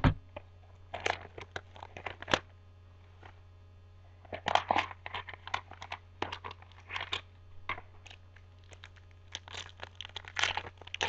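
A pack of baseball cards being torn open, its wrapper crinkling and crackling in bunches of sharp crackles, loudest about four to five seconds in and again near the end.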